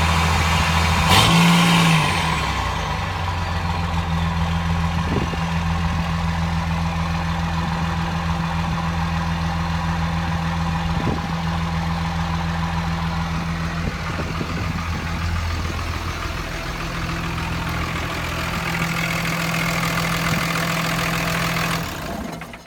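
2003 Ram's Cummins 5.9 inline-six turbo diesel idling steadily, with one short rev about a second in. The sound dies away near the end.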